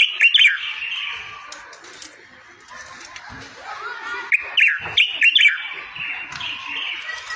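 A songbird sings a fast, continuous warbling song of chirps and twitters, with bursts of loud sharp notes near the start and again about four to five seconds in. It is a tutor song of the kind played to teach goldfinches and canaries.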